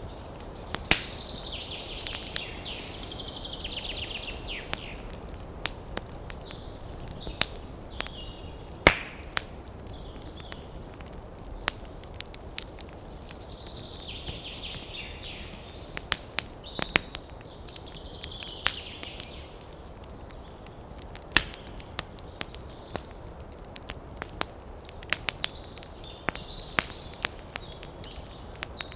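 Wood campfire crackling, with sharp pops at irregular intervals over a steady low hiss.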